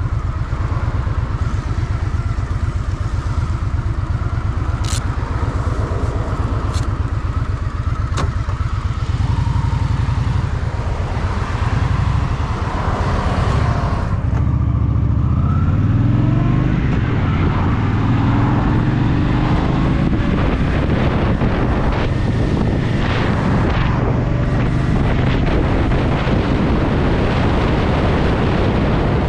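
Honda Shadow VT750's V-twin engine running at low revs, then from about halfway through accelerating hard, its pitch rising and dropping back in steps as it shifts up through the gears. A few sharp clicks early on.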